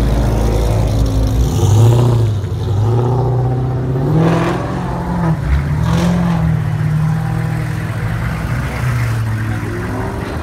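Dodge Charger SRT8 Super Bee's V8 running with a deep rumble as it pulls away. An engine note then rises and falls repeatedly as a Hummer H1 rolls slowly past.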